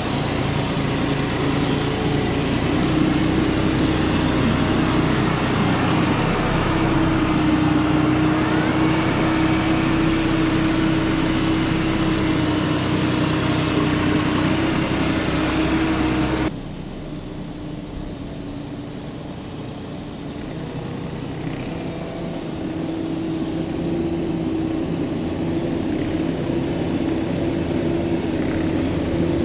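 Heavy equipment engine running steadily. A little past halfway it suddenly drops in loudness and loses its high end, then slowly builds back up.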